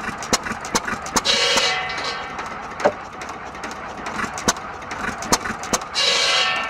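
5 hp Sandwich hit-and-miss gasoline engine running, its firing strokes coming as sharp, irregularly spaced pops. A belt-driven firewood buzzsaw twice lets out a loud whine as it bites into wood, briefly about a second in and again near the end.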